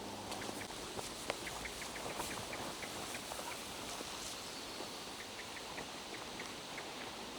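Steady rain falling through a pine forest, with scattered drips and light ticks.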